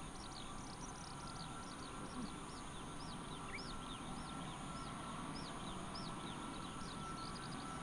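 A bird calling in a string of short, high, arching chirps, about two a second, over a steady high hiss and a low rumble.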